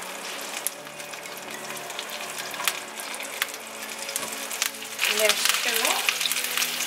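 Chorizo sausage pieces frying in butter and a little oil in a nonstick pan, a steady sizzle with scattered pops. The sizzle gets louder about five seconds in as more pieces go into the pan.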